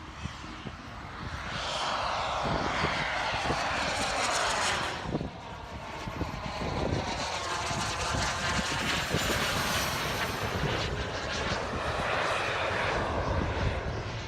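Turbine-powered radio-controlled model jet flying past, its engine noise rising loud about a second and a half in, dipping briefly near the middle, then swelling again on a second close pass.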